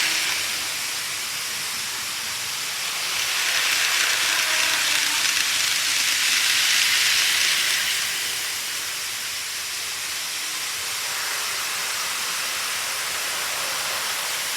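Model railway train running along the layout track: a steady hissing rolling noise that swells louder from about three seconds in and falls back at about eight seconds.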